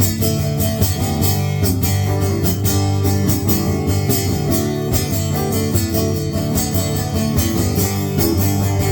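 Acoustic guitar strumming at a steady rhythm: the instrumental intro of a country-style song, played live.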